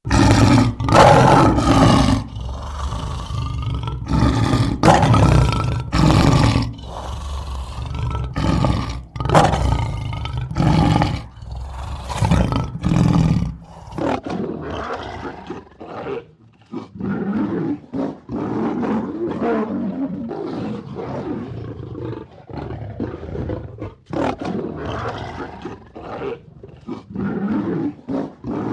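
A big cat roaring in a string of loud calls of about a second each. About halfway through, the recording changes to a duller, more continuous run of calls.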